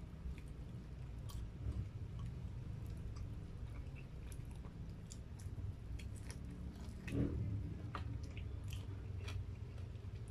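Close-up chewing and biting of crispy fried chicken: wet mouth sounds with many small crunchy clicks, and one louder bite about seven seconds in.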